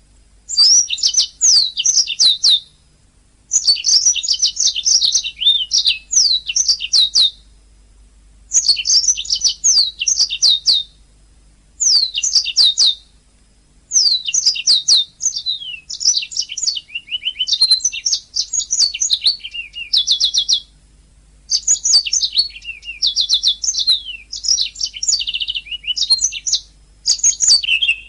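Domestic canary singing: long phrases of rapid chirps and trills, each running a second to several seconds, broken by pauses of about a second.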